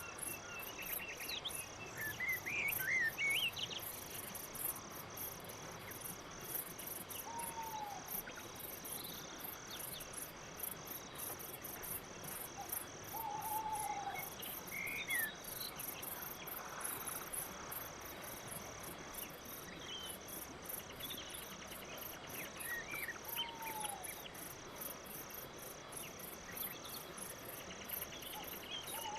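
Crickets chirping in a steady, even pulse, with a few short whistled bird calls, one a brief falling note repeating every several seconds.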